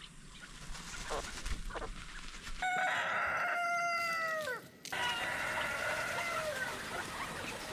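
Rooster crowing: one long call that drops in pitch at its end, then another drawn-out call, with chickens clucking around it.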